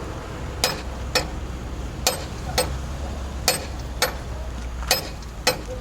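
Sharp metallic taps, about two a second in an uneven rhythm, each with a brief ring, over a low steady hum that fades near the end.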